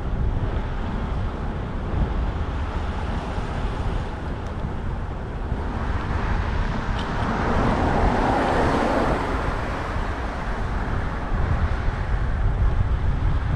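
Wind buffeting the microphone of a moving bicycle's camera over street traffic noise, with a vehicle passing and swelling louder for a few seconds around the middle.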